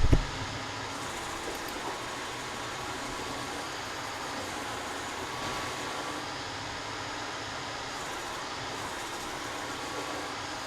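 Steady running noise of a machine, even in level throughout, with one loud thump right at the start.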